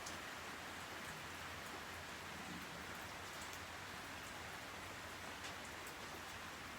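Steady faint hiss of background noise, with a few light ticks.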